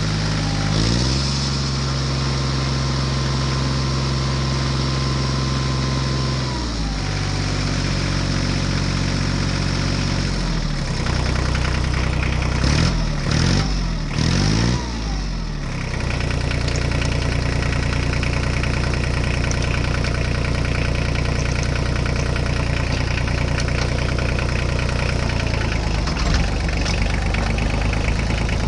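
Tractor engine running at a steady idle. It shifts pitch a couple of times early on, revs quickly up and down a few times around the middle, then settles back into an even idle.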